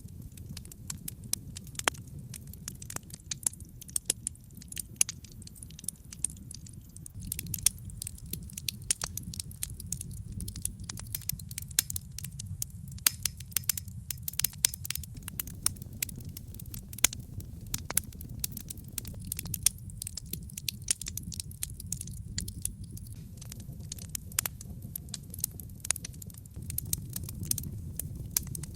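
Wood logs burning in a brick fireplace: a dense run of irregular sharp crackles and pops over a steady low rumble of the flames.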